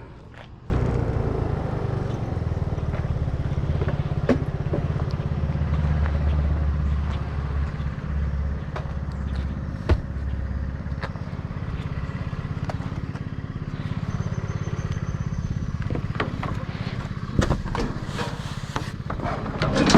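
A vehicle engine running steadily with road noise. It cuts in abruptly about a second in, with a few sharp knocks along the way.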